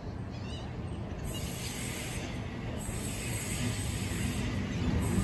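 Sydney Trains Waratah electric double-deck train approaching along the track: a low rumble of wheels on rail with a hiss, growing steadily louder. The hiss comes in about a second in.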